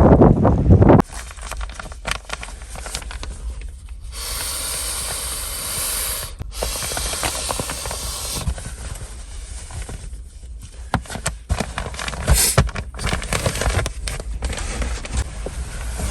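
Loud wind buffeting the microphone for about a second, then it cuts off suddenly to a quieter mix of small clicks and rustles. A steady high hiss runs for about four seconds in the middle, broken once briefly.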